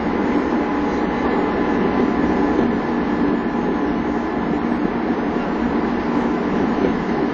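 Steady running noise heard inside a Tokyu 5000 series electric commuter train car as it runs between stations: wheels on the rails and the car body, with a few faint steady tones above it.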